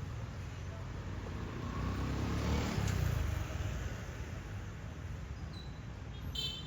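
Street ambience with a motor vehicle passing by, its low rumble swelling and fading about two to three seconds in. A short high chirp sounds near the end.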